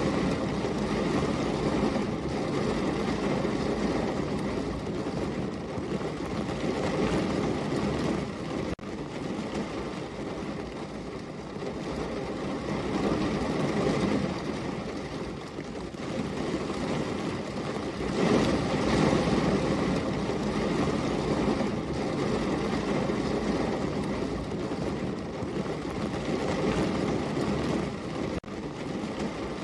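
Steady heavy rain, a dense even rush that swells louder twice and eases again, with two very brief dropouts.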